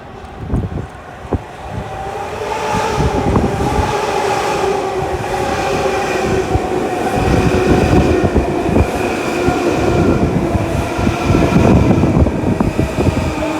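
A train approaching and passing along the track, growing louder about two seconds in: the rumble and clatter of wheels over rail joints with a steady whine above it.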